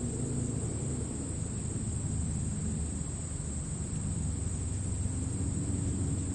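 Crickets chirring in the grass, a steady high-pitched trill without pause, over a steady low rumble.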